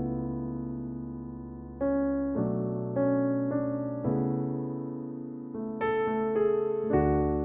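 Piano playing slow, held chords, each struck and left to fade before the next, with new chords coming every second or so.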